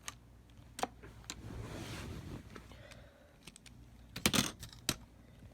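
Scattered clicks and light rattling of plastic Lego Technic parts being handled, with a louder cluster of clicks about four seconds in.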